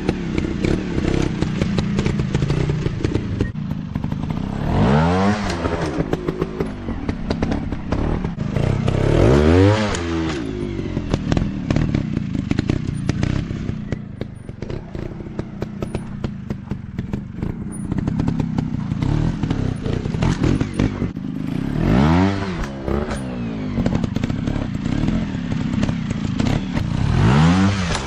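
Dirt bike engine running and revving hard in repeated bursts, rising and falling in pitch about four times, with clattering and knocking throughout.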